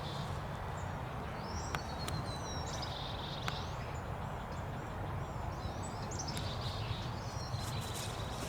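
Birds chirping and calling over a steady low outdoor rumble, with a few faint sharp clicks.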